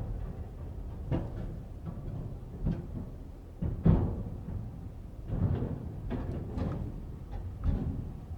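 A vehicle driving onto a car ferry: a low rumble broken by about six heavy clunks and thuds at uneven intervals, the loudest about four seconds in.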